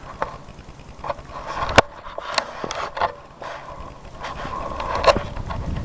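Footsteps crunching and scraping through deep, dry powder snow, with irregular crunches, one louder near the middle and another near the end.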